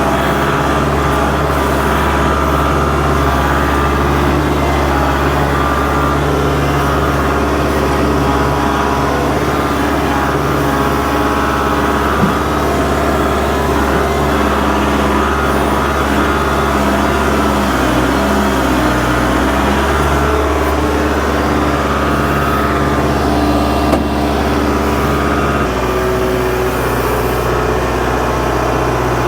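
Kubota L47 backhoe tractor's diesel engine running steadily at working speed. Its note shifts near the end, and there are a couple of light knocks along the way.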